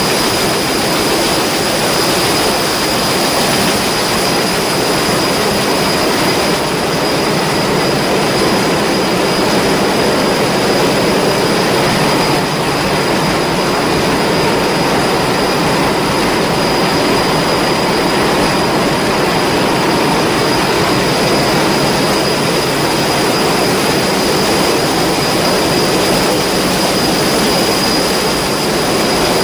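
Ship's diesel main engine running steadily under way: a loud, even drone with a steady high whine above it.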